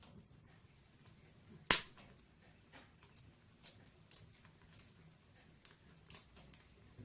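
Firewood burning in a fireplace and crackling: scattered small cracks, with one loud pop a little under two seconds in.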